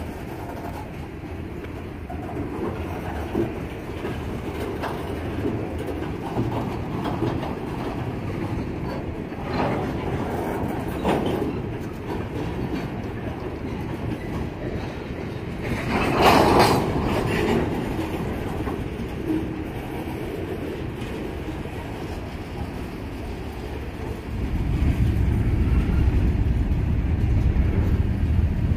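Freight cars of a CSX mixed freight train rolling past over a road crossing, wheels clicking and clattering over the rail joints. There is a louder clatter about halfway through, and the rumble grows heavier in the last few seconds.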